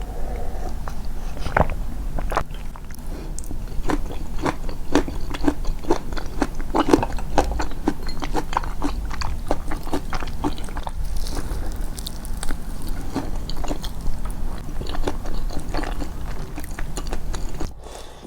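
Close-miked chewing, the mouth working in a steady rhythm of short wet clicks about two a second, boosted to bring out the chewing.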